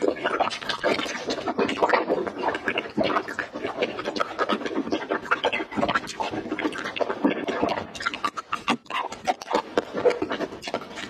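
Close-miked mouth sounds of biting into and chewing soft jelly candies: a dense, unbroken run of small clicks and smacks.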